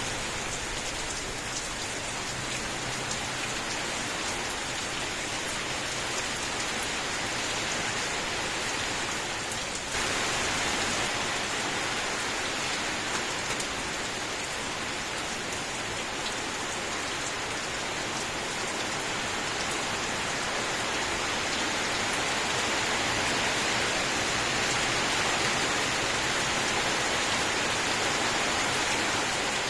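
Steady rain: a dense hiss of falling water with a fine patter of drops, getting suddenly louder about ten seconds in.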